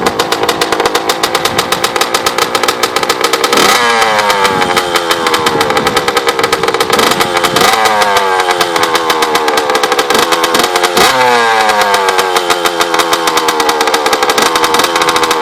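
Honda CR85's 85cc single-cylinder two-stroke engine running just after starting, with three throttle blips, about 4, 8 and 11 seconds in, each jumping up in pitch and falling back to a fast idle.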